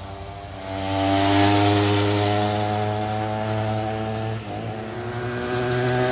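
49cc pocket bike engine revving hard at full throttle as the bike is ridden, climbing to a high, steady buzz about a second in. The revs dip briefly about four seconds in, then climb again.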